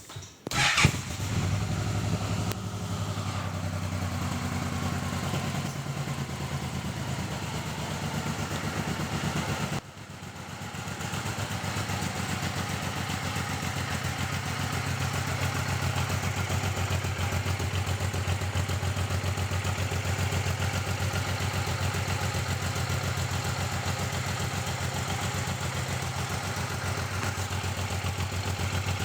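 Suzuki Boulevard M109R's 1783 cc V-twin on its stock exhaust, starting up about a second in and then idling steadily. The sound drops off abruptly about ten seconds in and builds back to the same steady idle over a couple of seconds.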